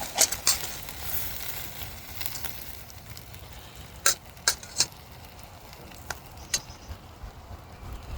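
Steak and potatoes sizzling in a frying pan over a campfire, the hiss strongest at first and fading, with a few sharp clicks scattered through.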